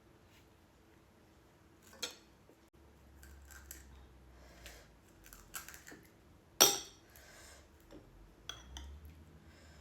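Crisp panipuri shells cracking and crunching as they are broken and eaten, in a run of sharp clicks. The loudest crack comes about two-thirds of the way through.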